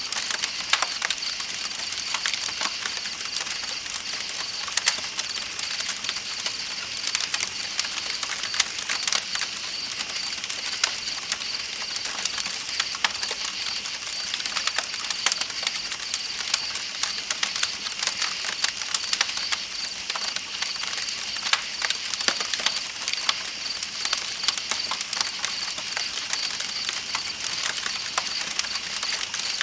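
Campfire crackling with frequent, irregular sharp pops, over a steady high-pitched trill of night insects and a soft, even rush of flowing river water.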